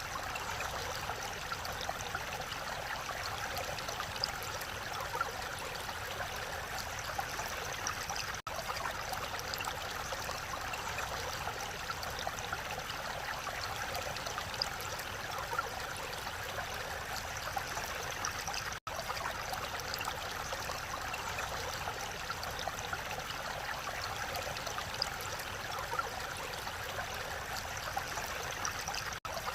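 Mountain valley stream running: a steady rush of flowing water that cuts out for an instant three times.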